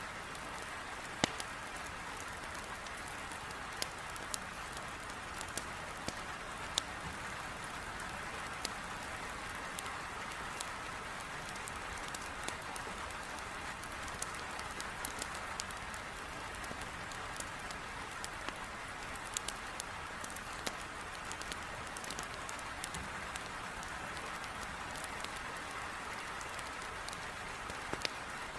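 Heavy rain pattering steadily against a window, with scattered sharp crackles and pops from a wood fire burning in a fireplace.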